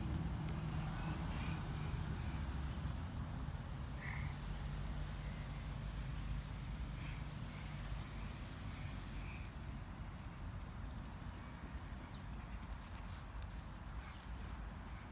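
Small birds chirping: short, high two-note chirps and a few quick trills, repeated every second or so. Underneath runs a low, steady outdoor rumble that eases off in the second half.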